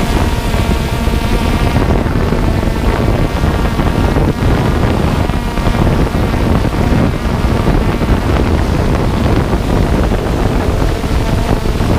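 Strong wind buffeting the microphone in a steady, rough rumble, with faint steady whining tones underneath.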